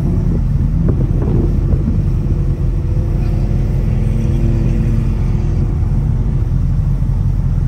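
A vehicle's engine running with a steady low rumble, its note holding even for a few seconds in the middle.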